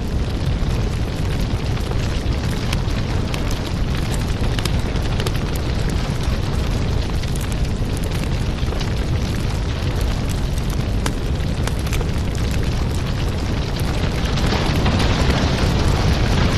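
Fireplace fire burning: a steady low rumble of flame with frequent sharp crackles and pops.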